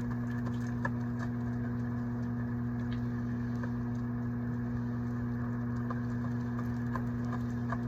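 A steady low hum with light, scattered ticks of rain pattering over it.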